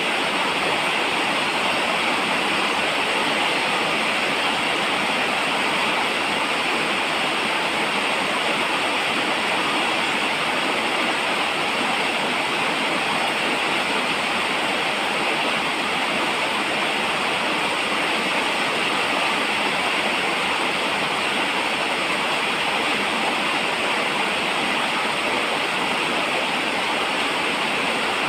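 Steady rain falling, an even hiss that never changes in level.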